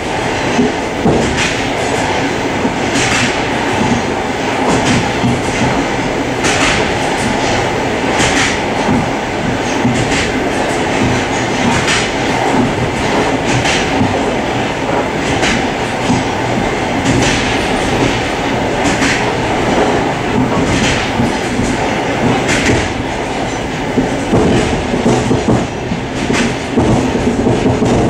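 Commuter train running at speed, heard from inside the car's vestibule: a steady rumble and rattle, with a sharp wheel click about every two seconds as the wheels cross rail joints.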